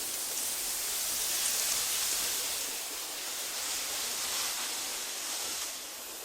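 Wind blowing through tall meadow grass and wildflowers: a steady, bright, rustling hiss that swells in gusts and eases off near the end.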